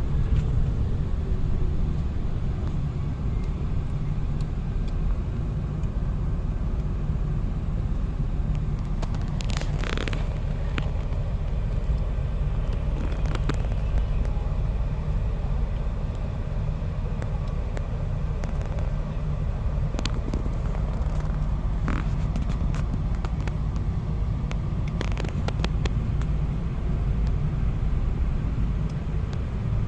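Steady low rumble of a car travelling along a road, with a few brief clicks or knocks scattered through.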